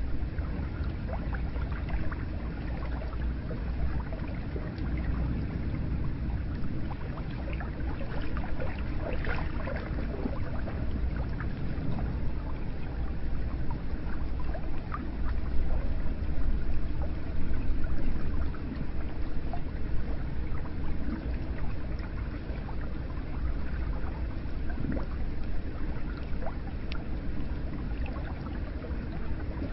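Hot spring water flowing and trickling, with small splashes and drips over a steady deep undertone.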